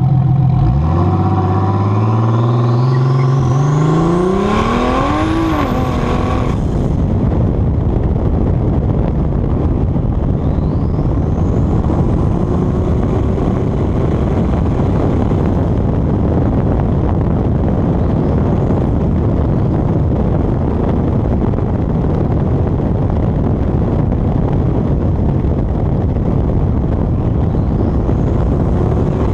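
Turbocharged 3800 V6 in a Pontiac Fiero accelerating at wide-open throttle, its pitch climbing steadily for about five seconds with a high whistle from the turbo rising above it. The engine note drops away about six and a half seconds in, leaving a steady rush of wind on the microphone at speed.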